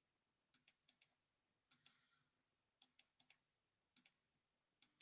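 Faint, sharp clicks, most of them in quick pairs, about a dozen in all over near silence.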